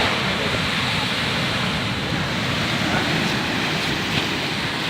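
Sea surf breaking and washing onto the beach, a steady rushing noise of waves.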